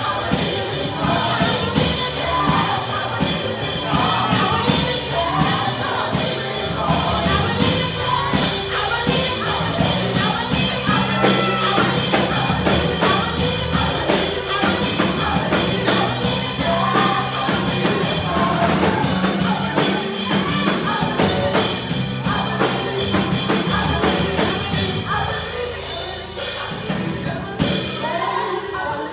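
Live church praise band playing a worship song with drums, with singing over it. The music eases off near the end.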